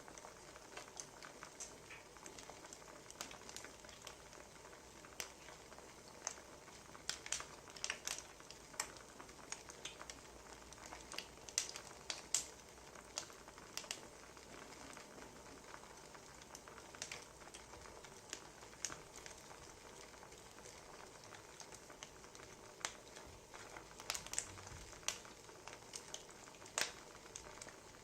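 Wood fire crackling: a soft steady hiss with irregular sharp pops and snaps of burning firewood.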